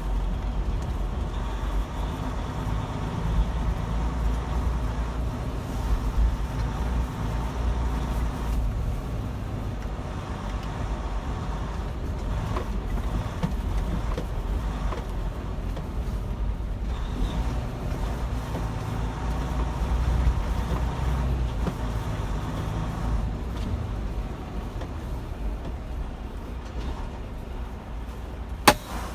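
Semi truck's diesel engine running, heard from inside the cab as the truck pulls away, with a single sharp click near the end.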